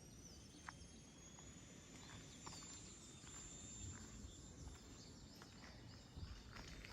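Near silence: faint outdoor ambience with a thin high whistle that glides up and then holds, and a few soft clicks.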